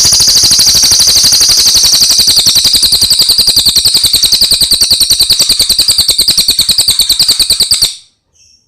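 Cililin songbird singing one long, loud, rapid trill of high, evenly repeated notes that stops abruptly near the end.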